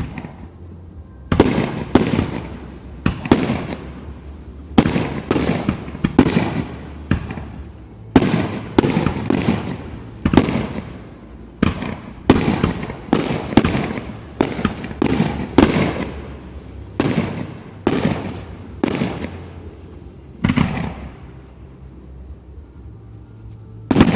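Fireworks shells bursting overhead one after another, sharp bangs each trailing off. A dense run of bursts, then one more and a short lull before a loud burst at the end.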